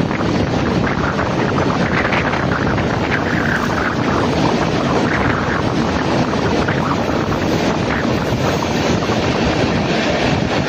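Udyan Express passenger train running at speed through a tunnel, heard from the coach side: a steady loud rush of wheels on rail and the train's noise closed in by the walls, with wind buffeting the microphone.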